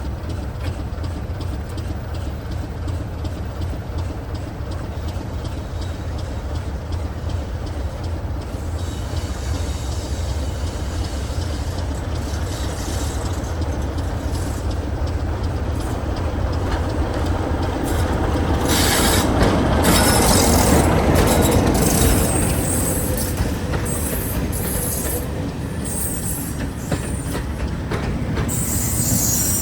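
Class 33 diesel locomotive's Sulzer eight-cylinder engine running steadily as it draws into the station, growing louder to a peak about two-thirds of the way through as it comes past. From that point, and again near the end, there are sharp high-pitched squeals and clanks from the brakes and wheels on the rails.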